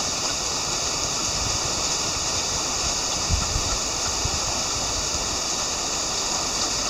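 Heavy rain falling steadily, an even hiss with a brief low thump about halfway through.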